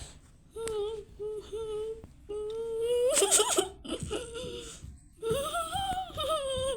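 A person's voice humming a string of short pitched notes, then longer wavering ones in the second half.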